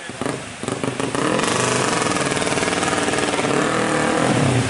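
Suzuki Satria FU motorcycle engine, bored out to 200cc, first running in uneven low putts. About a second in it revs up hard and stays loud, its pitch rising and falling as the bike is ridden.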